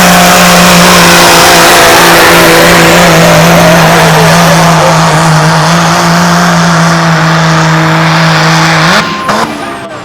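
A pulling truck's engine running flat out at high, steady revs under load during a pull. About nine seconds in the throttle is lifted and the engine falls away in pitch and loudness as the pull ends.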